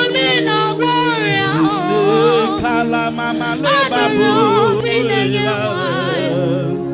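Worship singing: a voice with wide vibrato sings over steady held chords.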